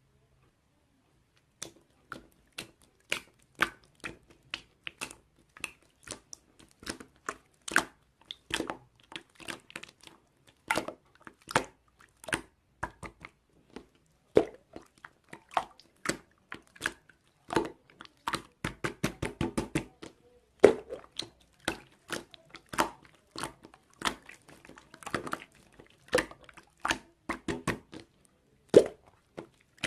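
Irregular sharp clicks and taps from objects being handled at close range, a few a second, with a short spell of crinkly rustling about two-thirds of the way through.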